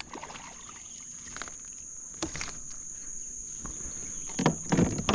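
Insects droning, one steady high-pitched tone, with a few short knocks and rattles near the end.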